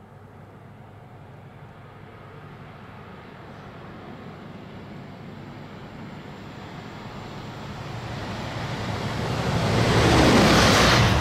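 A fast train approaching through the station and rushing past the platform, led by a locomotive. Its rumble and rail noise grow steadily for about ten seconds and peak in a loud rush as it passes, near the end.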